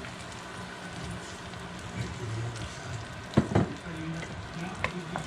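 Evaporated milk sizzling in a frying pan over sautéed garlic and onion, just after being poured in. A few sharp utensil knocks against the pan come about three and a half seconds in.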